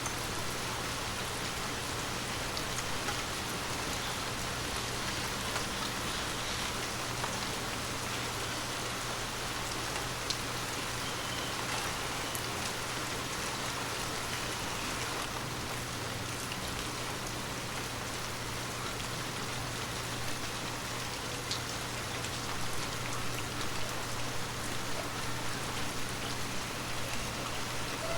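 Heavy rain falling steadily: a dense, even hiss with scattered individual drop ticks, over a low steady hum.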